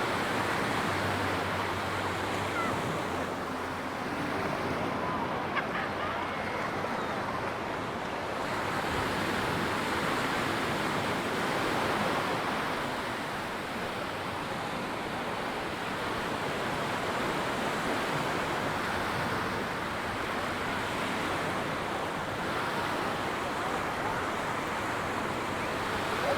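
Surf washing onto a sandy beach, a steady rush that slowly swells and eases, with some wind on the microphone.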